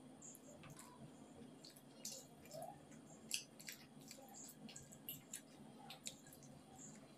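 Quiet eating sounds: a person chewing fried rice, with irregular small wet clicks from the mouth and from fingers squishing the rice on the plate.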